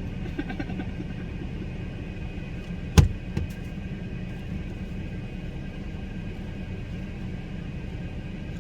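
Steady low rumble of background noise, with one sharp knock about three seconds in and a smaller one just after.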